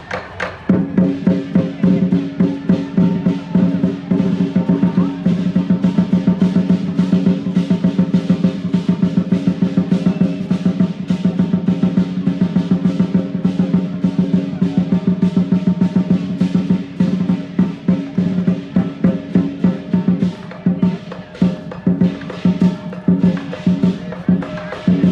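Lion dance percussion: a big Chinese drum beaten in fast, dense rolls over the ringing of gong and cymbals, with a short break just after the start.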